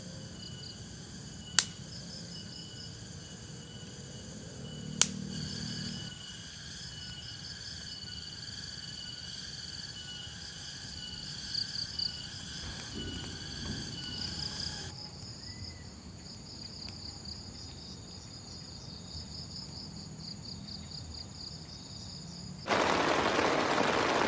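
Insects chirring steadily, with a fast pulsing trill, and two sharp snaps in the first five seconds. Near the end, heavy rain suddenly takes over as a loud, even hiss.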